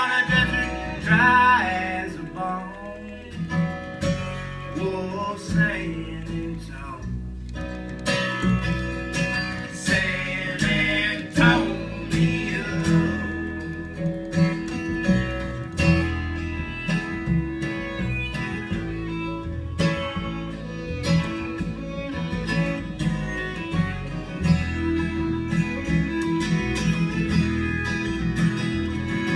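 Acoustic folk string band playing an instrumental break: picked acoustic guitar with fiddle over a steady bass line.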